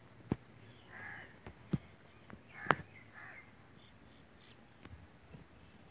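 A bird calls faintly a couple of times, about a second in and again about three seconds in. Three sharp clicks come between, the loudest near the middle.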